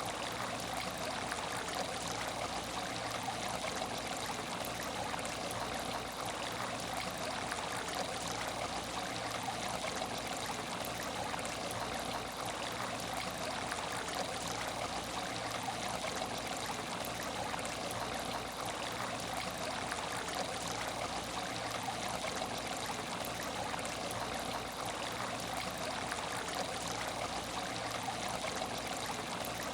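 Water in an aquarium tank flowing and trickling steadily, an even splashing rush with no breaks.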